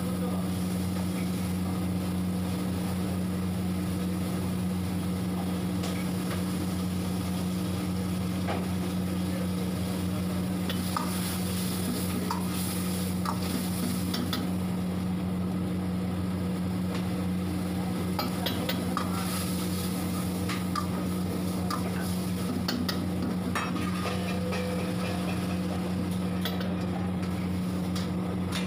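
Meat and onions sizzling in hot oil in a steel wok while a metal ladle stirs and scrapes against the pan, giving scattered clinks. The sizzle swells for a few seconds at a time, and a steady low kitchen hum runs underneath.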